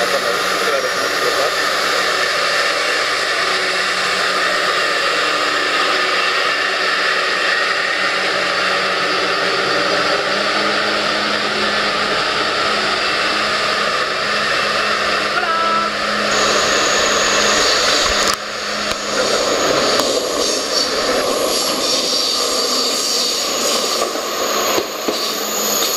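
TGV Duplex high-speed train moving slowly past a station platform, giving a steady loud whir. About 18 seconds in the sound changes suddenly as another TGV Duplex rolls by.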